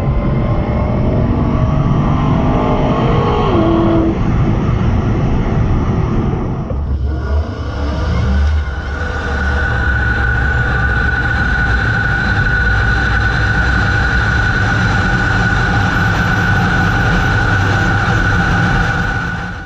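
Cars running on a quarter-mile drag strip: engine sound that shifts in pitch, then, after a change about seven seconds in, a steady high whine over a low rumble. The sound cuts off abruptly at the end.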